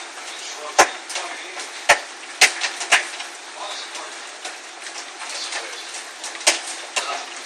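Large hailstones, golf-ball to baseball size, striking hard surfaces: a steady hiss of falling hail and rain with scattered smaller ticks and about five loud, sharp cracks, four of them in the first three seconds and one more past the middle.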